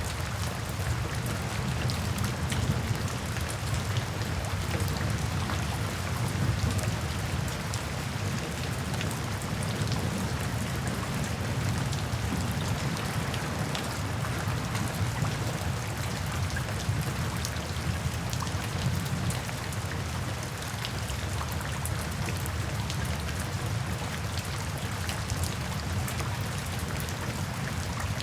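Steady rain: a dense, even hiss of falling rain with many small drop ticks and a low steady rumble underneath.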